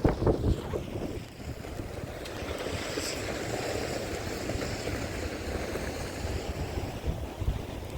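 Wind gusting against the microphone in a snowstorm: rumbling buffets at the start, then a steady rushing noise that swells through the middle.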